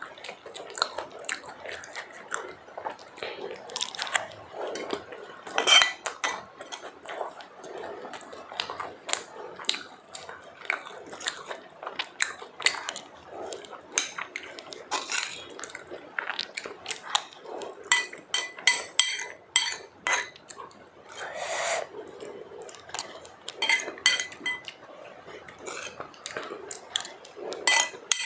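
Plate and utensils clinking and scraping during a meal: many short sharp clicks throughout, several of them with a brief ringing tone.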